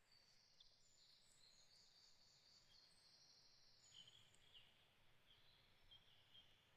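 Faint, high-pitched songbird song: a thin continuous trill for the first few seconds, then a run of short chirps.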